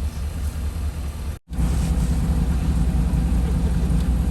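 Off-road truck engine running steadily at a low pitch. The sound cuts out abruptly for a moment about a second and a half in, then carries on slightly louder.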